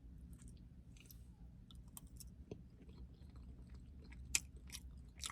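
Faint, close-up chewing of a mouthful of potato and broccoli: soft wet mouth clicks and smacks, with one sharper click about four seconds in.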